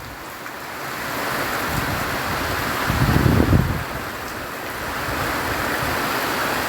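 Strong wind and rain in a storm, a steady rushing noise with gusts buffeting the microphone, the strongest a couple of seconds in.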